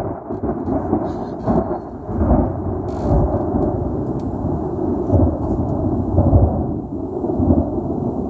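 Thunder rumbling on without a break, swelling and easing again and again.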